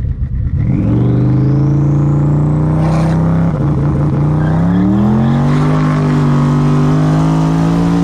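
Twin-turbo Mustang Cobra V8 launched at full throttle, the revs climbing and then held high while the rear tires spin and smoke. A turbo whistle rises in pitch over the first two seconds, and the revs step up again about three and a half seconds in and stay there.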